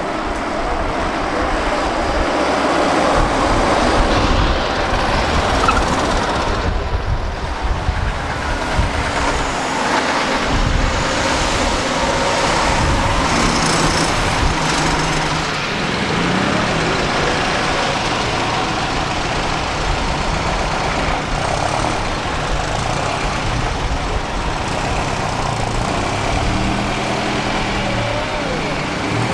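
Tokyu Kurogane KW8 three-wheeled truck running as it drives. Its engine note comes through more clearly from about halfway, with a brief rise in pitch.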